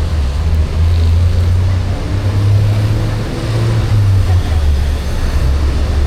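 Street traffic on a wet road: a steady low engine rumble that shifts in pitch a few times, over a continuous hiss of rain.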